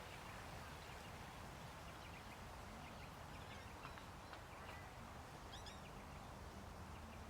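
Faint outdoor ambience: steady low background noise with a few faint, high bird chirps, a short run of them about five and a half seconds in.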